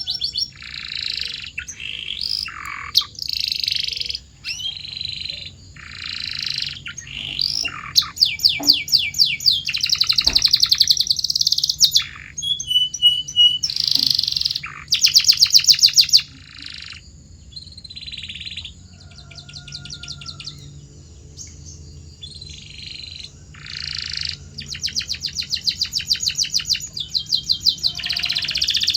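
Canary singing: a long string of high chirps and fast trills of rapidly repeated notes, in phrases separated by short pauses, loudest in the middle stretch.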